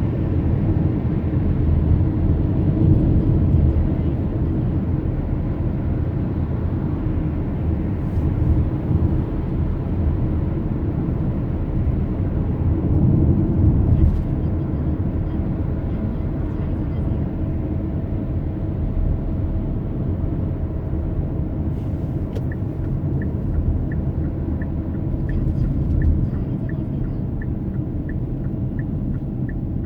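Steady road and engine rumble heard inside a moving car. In the last third, a regular tick starts at about two a second, in the manner of a turn-signal indicator.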